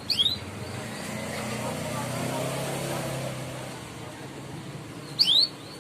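Canary giving its short 'cuit' chirp call twice, about five seconds apart, each a quick high rising note. In between, a low engine rumble swells and fades.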